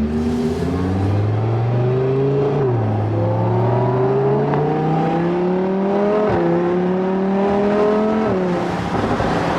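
Lamborghini Huracán's V10 with an aftermarket Vivid Racing exhaust accelerating through the gears. The engine note rises steadily, then drops at an upshift about three seconds in, again past six seconds, and near the end.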